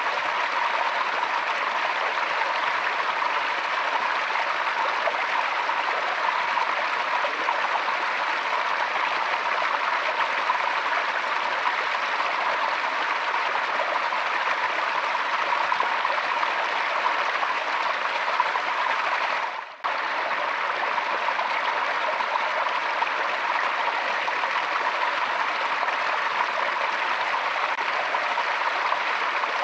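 Forest stream water running and splashing in a steady, even rush. The sound drops out briefly for an instant about two-thirds of the way through, then resumes.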